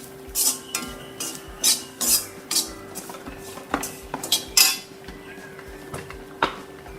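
A spoon stirring and scraping a dry-roasting mix of grated coconut and ground spices in a pan, with about a dozen irregular scrapes and clinks against the pan. A steady low hum runs underneath.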